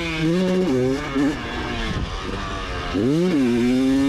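Motocross bike engine heard from on the bike, revving up under throttle, backing off in the middle, then climbing in pitch again about three seconds in and holding.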